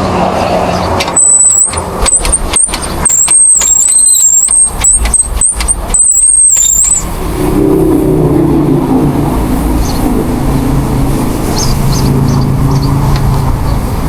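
Car on the move, heard from inside: a loud, choppy rush of noise with a wavering high whine for the first several seconds, then a steadier low hum of engine and road noise.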